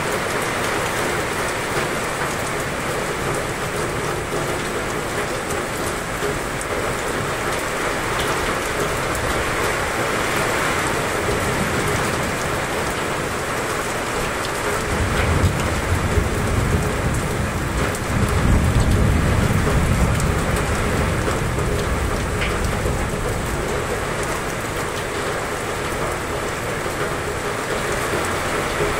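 Heavy, steady downpour. About halfway through, a low rumble of thunder swells twice and fades over roughly seven seconds.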